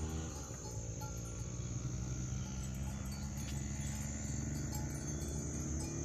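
Crickets trilling continuously in one steady high note over a low steady rumble, with a faint hum rising in pitch near the end.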